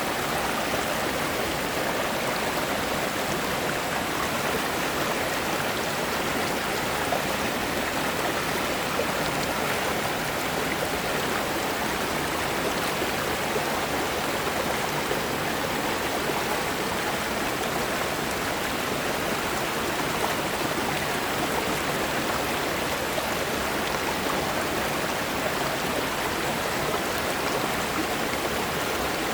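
Mountain stream rushing over smooth rocks: a steady, even splashing rush of water, mostly in the middle and upper range.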